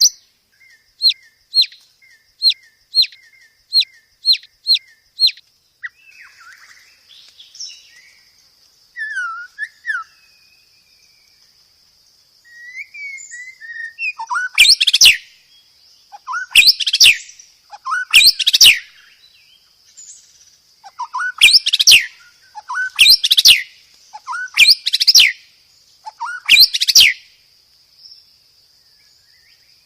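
Songbird calls, as on a bird-training recording. First a row of eight short, sharp falling notes, about two a second. Then softer varied chirps over a thin, steady high trill. From about halfway, loud strident notes in pairs repeat every couple of seconds.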